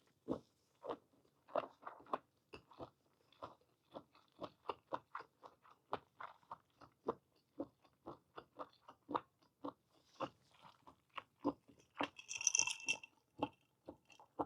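Close-miked chewing of boiled whole squid with blanched green onion: a steady run of short chewing clicks, about three or four a second. A brief hiss comes about twelve seconds in.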